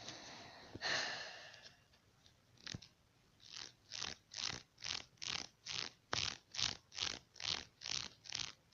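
A dog panting close to the microphone: after a longer breathy rush, an even run of quick huffs at about two and a half a second begins a few seconds in.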